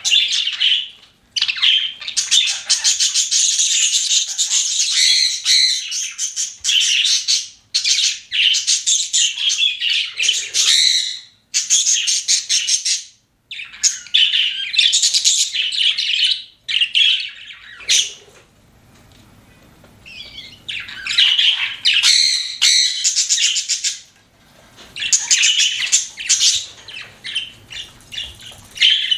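Pet budgerigars chirping and warbling in busy, high-pitched bursts of several seconds, broken by short pauses, with a quieter lull a little past the middle.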